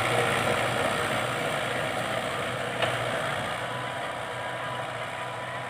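Fiat 640 tractor's diesel engine running steadily and growing gradually quieter, with a sharp click about three seconds in.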